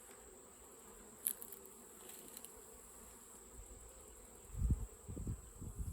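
Honeybees buzzing steadily around an open hive. A brief click comes about a second in, and loud low rumbling thumps start near the end.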